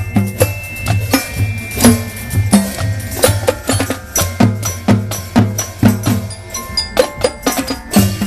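Marching show band playing: drums beating a steady rhythm under bell-like mallet tones.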